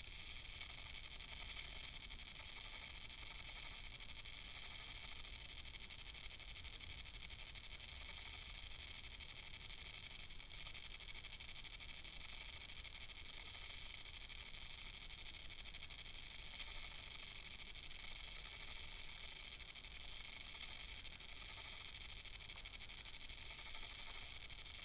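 Faint steady hiss with low rumble and no distinct calls, knocks or drumming.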